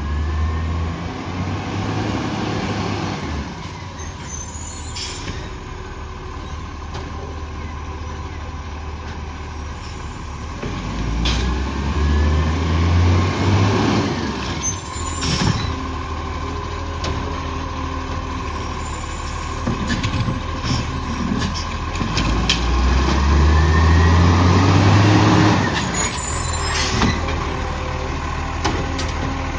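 Garbage truck's diesel engine running, revving up twice with a rising pitch, with short air-brake hisses about every ten seconds as it stops and moves off between bins.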